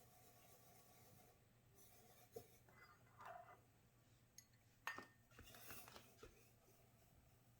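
Near silence with a few faint clicks and short rubbing noises, the sharpest click about five seconds in.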